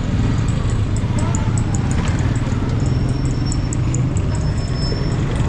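Street traffic: a steady low rumble of vehicle engines running, with scattered faint high ticks.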